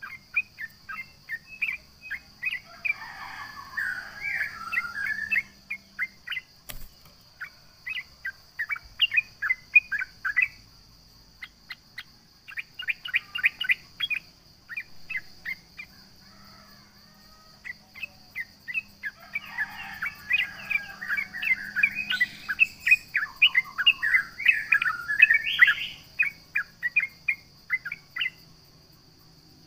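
Yellow-vented bulbul (trucukan) singing: quick series of short, sharp chirps, broken twice by bursts of fast, busy warbling, once about three seconds in and again for several seconds past the middle. A faint steady high tone sounds behind it throughout.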